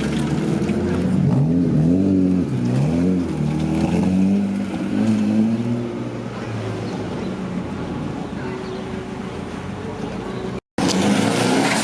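A car engine idling and being revved in short blips, its pitch rising and falling several times in the first half before settling back to a steady idle. The sound cuts out briefly near the end.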